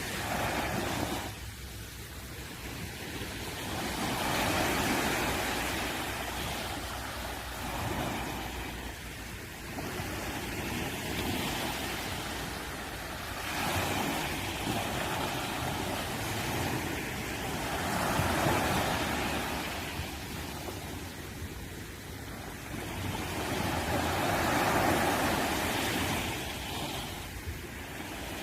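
East Sea surf, waves breaking and washing up the shore, the rush swelling and falling back every four to five seconds.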